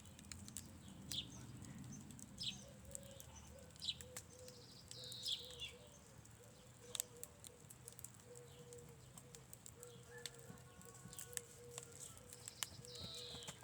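Birds chirping: short falling calls repeated every second or two, with scattered faint clicks and a faint steady hum underneath.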